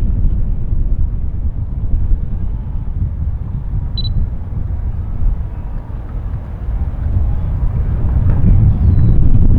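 Wind buffeting the microphone as a steady low rumble, growing louder near the end, with one short high chirp about four seconds in.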